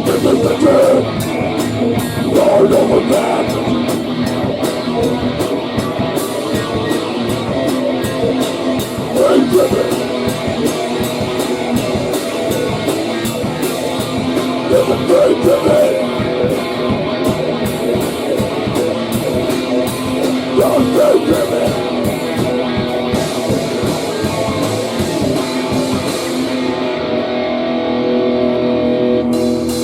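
Heavy rock band playing distorted electric guitar over a pounding drum kit. Near the end the drums and cymbals drop out, leaving a held guitar chord ringing.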